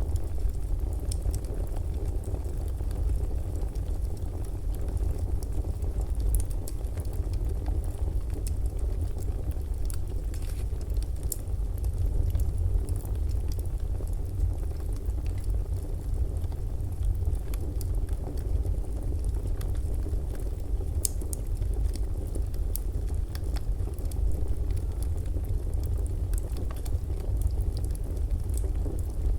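Fireplace ambience of burning wood: a steady low rumble with scattered sharp crackles and pops.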